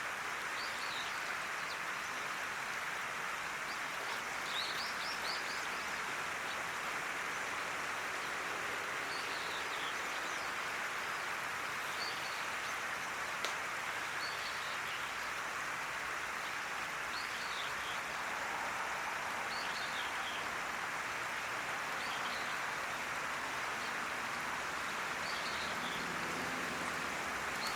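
Short high bird calls, repeated every second or two, over a steady rushing background noise.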